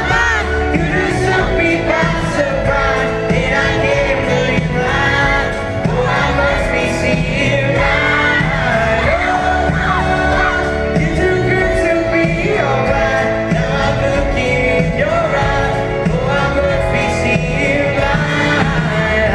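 Live pop music from a concert band with singing over it, and shouts and whoops from the crowd.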